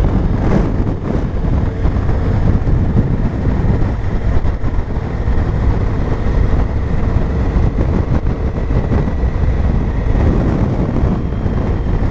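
Honda Africa Twin motorcycle riding at road speed: a steady, loud rush of wind on the microphone over the engine's running drone.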